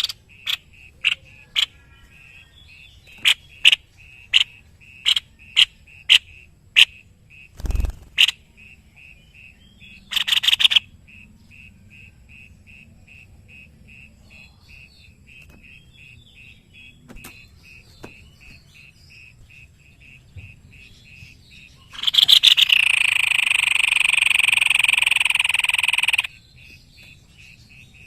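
White-necked babbler calling: sharp single notes and fast runs of short pulsed notes at one steady pitch, a brief rattle about ten seconds in, and a loud buzzy call held for about four seconds near the end. A single low thump comes about eight seconds in.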